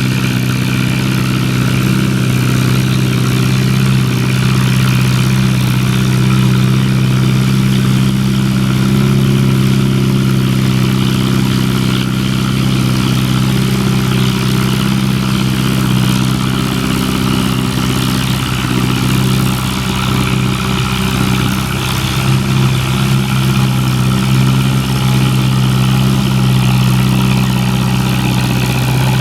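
Antique farm tractor engine running at a steady, even speed.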